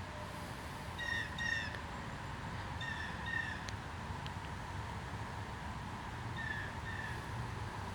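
A bird calling in three pairs of short, slightly falling notes, over a steady low background rumble.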